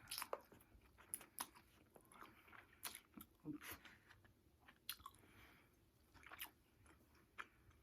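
Faint chewing and mouth noises of a person eating takeout food, close to the microphone: irregular soft clicks and smacks.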